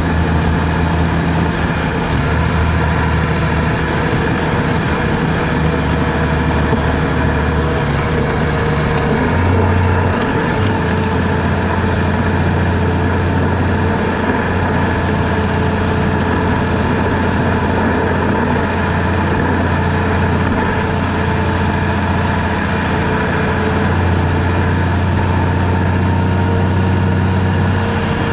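Vehicle engine running with a steady low hum over road noise; the engine note changes about ten seconds in.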